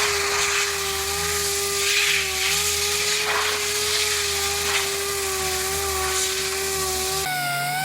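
A handheld power tool running at a steady pitch while working bodywork metal, with rasping surges as it bears down on the panel; its pitch jumps higher near the end.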